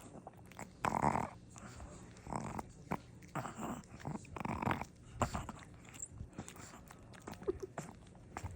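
A dog gnawing and crunching on a hard turkey chew, in irregular bursts of chewing about a second apart.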